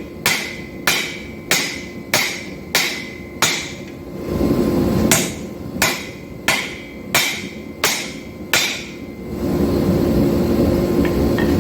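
Hammer blows on hot steel against an anvil, about one every 0.6 s with a ringing note on each strike: two runs of six with a short pause between. A steady rushing noise takes over about nine seconds in.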